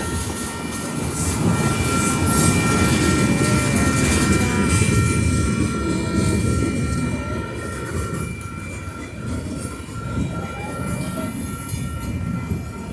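A train passes close by at a railroad crossing, its wheels and cars making a loud, steady rumble that swells a couple of seconds in and then eases a little. Several steady high-pitched tones ring over the rumble.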